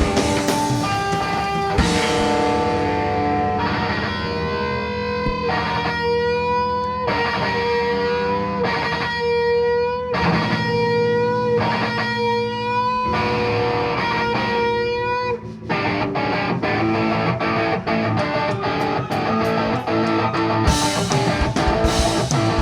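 Live rock band playing an instrumental passage led by electric guitar, with held, repeating guitar notes; about two-thirds of the way through the full band comes in denser, with drum hits.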